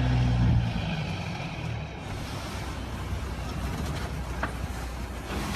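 Motor vehicle running with road noise, a low steady tone in the first second that then fades out.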